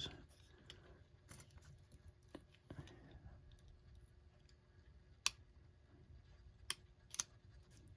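Faint, scattered clicks and taps of small metal parts being worked at by hand: a wire clip and thick washers on a record player's tone arm. Three sharper clicks come in the second half.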